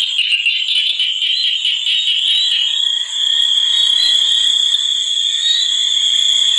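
A dense chorus of calling frogs and insects: a continuous high-pitched trilling with a fainter, shriller layer above it.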